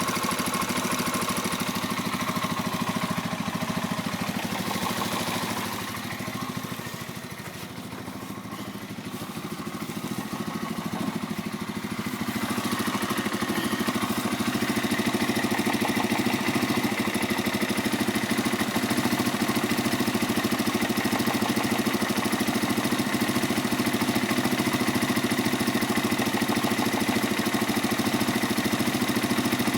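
Pioneer Nevada motorcycle engine idling steadily, with a slight knock about every five seconds; the engine is brand new and unridden. The sound is quieter for a few seconds, from about six seconds in.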